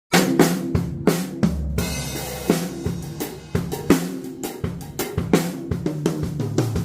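Odery drum kit played in a groove: snare and bass drum strokes under hi-hat and cymbal hits, about two or three strong hits a second. Pitched low notes that change run underneath the drumming.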